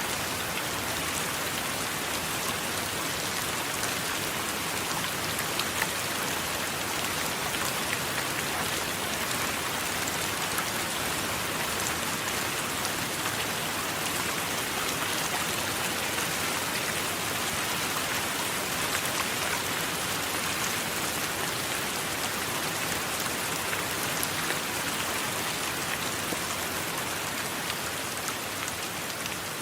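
Steady rain: an even hiss with individual drops ticking through it, and no thunder.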